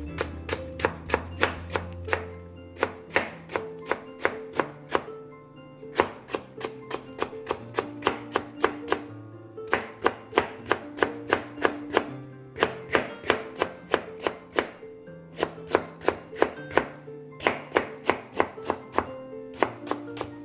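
Kitchen knife slicing radish on a cutting board, sharp strokes at about four a second in runs broken by short pauses, with background music.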